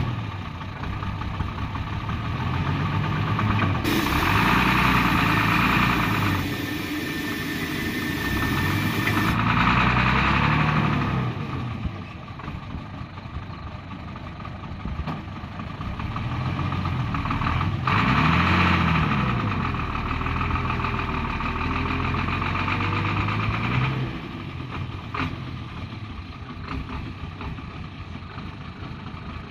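A Hino truck's diesel engine revving up and down again and again under load as the truck tries to climb out of deep mud. A loud hiss runs from about four to nine seconds in.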